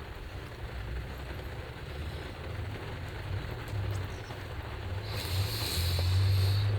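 Rainstorm heard from inside a parked kei van: wind buffeting the van body as a low, uneven rumble. About five seconds in a stronger gust comes with a loud hiss of wind-driven rain lashing the van.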